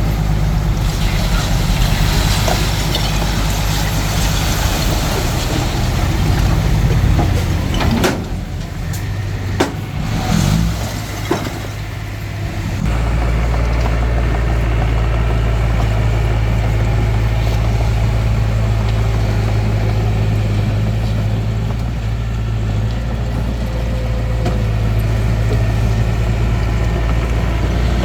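Hitachi DX45M bulldozer's diesel engine running steadily. About eight seconds in the drone dips and a few sharp knocks sound. From about thirteen seconds it runs steady and fuller again.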